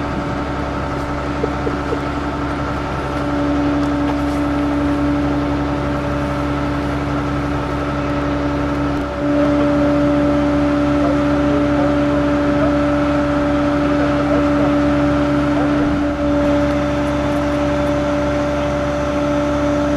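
A motor running steadily with a constant whine, stepping up in level about three and a half seconds in and again about nine seconds in.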